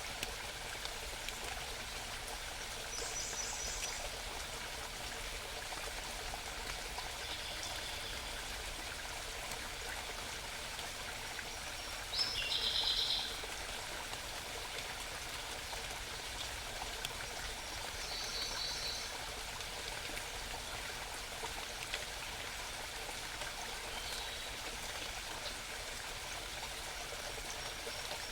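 Stream babbling steadily, with a small songbird singing short, high phrases of rapidly repeated notes every few seconds. The loudest phrase comes about twelve seconds in.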